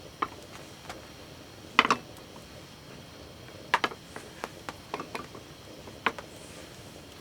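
Light clinks and knocks of camp cookware and utensils being handled, the loudest a short clatter about two seconds in and others near four and six seconds, over a steady faint hiss.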